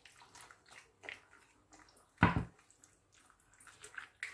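Raw chicken pieces being mixed in a thick ketchup seasoning mixture: soft, irregular wet squelches, with one louder thump a little past two seconds in.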